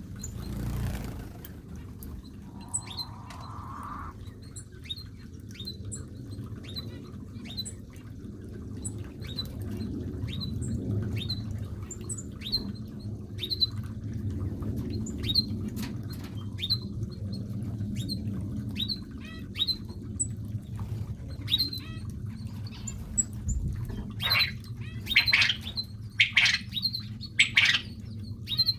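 Small aviary birds chirping: short, high calls repeating throughout, growing louder and more frequent near the end, over a low steady rumble.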